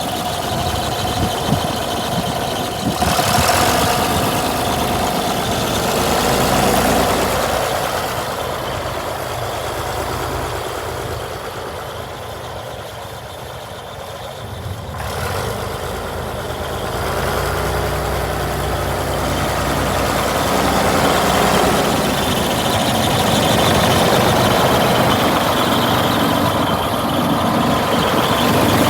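1976 John Deere 4230 tractor's six-cylinder diesel engine running, growing quieter toward the middle and louder again in the second half.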